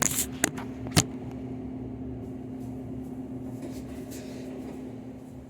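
Trane air handler's blower running steadily with a constant low hum. Three sharp knocks in the first second, the loudest about a second in.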